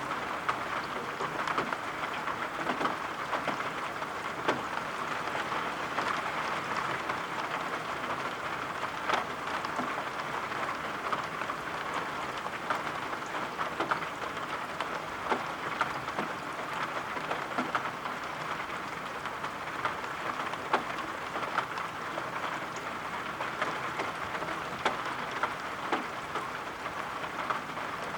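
Steady rain falling, with scattered sharp taps and clicks through it.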